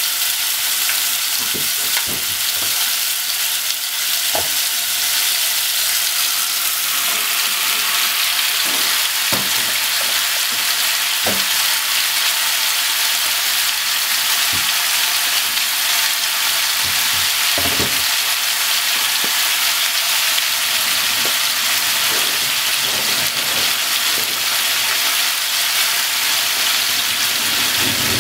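Pork, potatoes, onions and carrots frying in a pot, a steady sizzling hiss with scattered pops and crackles.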